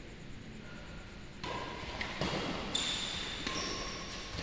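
Badminton play on an indoor court: sneakers squeak on the floor several times and there are a few sharp racket-on-shuttlecock knocks, starting about a second and a half in. The sound echoes in a large hall.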